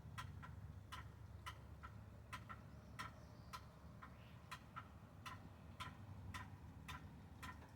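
Ford 7.3 IDI diesel engine idling after a cold start, heard faintly as a low, steady rumble. Sharp ticks come about twice a second, often in pairs.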